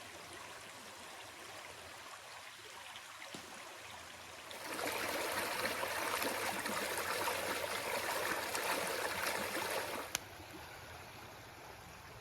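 A stream of running water, a steady rushing with no rhythm. About five seconds in it grows louder for roughly five seconds, then a sharp click and it drops back to a softer level.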